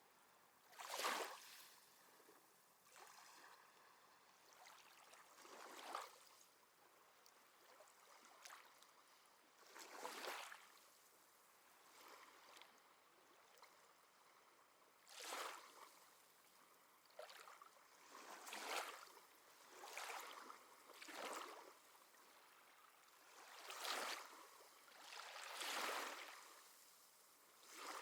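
Small sea waves washing onto the shore, faint, coming as a dozen or so soft swells of rushing water, each a second or two long, at uneven intervals.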